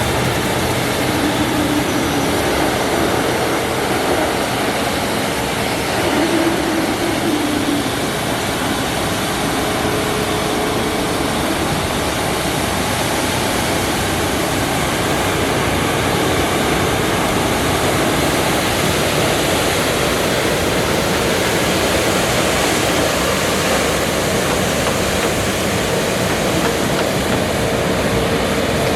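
Bucher V65 truck-mounted road sweeper working, a steady loud rushing noise from its suction fan and brushes with a faint continuous whine.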